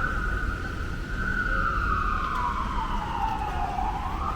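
Emergency vehicle siren wailing in a slow sweep: its pitch slides down over a few seconds and climbs back up near the end, over a low steady rumble.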